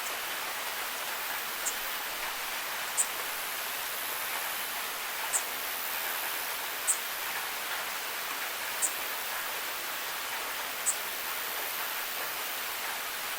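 Steady rain falling, an even hiss, with six sharp high ticks spaced a couple of seconds apart.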